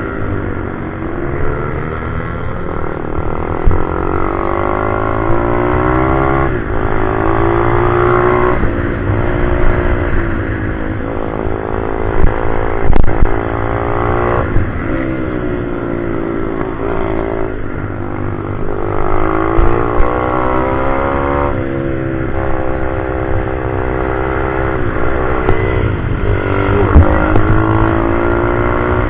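Pit bike's small single-cylinder four-stroke engine at hard throttle. Its pitch climbs, then drops sharply, over and over every few seconds, as the bike is ridden around a track.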